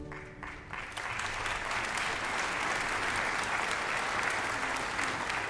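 An audience applauding. A few scattered claps come as the last held note of the string accompaniment fades, and the clapping fills out into steady applause about a second in.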